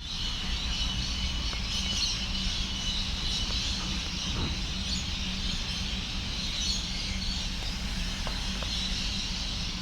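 Electric suburban train at a station platform, giving a steady low hum and rumble with a faint high tone over it.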